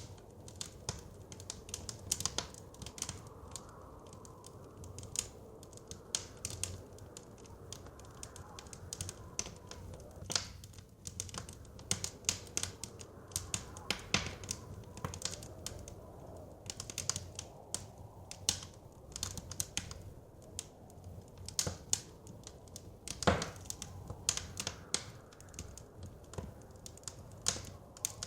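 Wood fire crackling in a fireplace: irregular sharp pops and snaps, a few louder ones, over a soft low rumble of the flames and wind.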